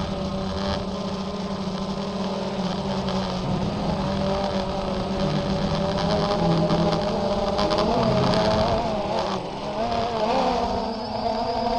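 DJI Phantom quadcopter's motors and propellers buzzing in flight. The pitch wavers up and down as the throttle changes, most in the second half.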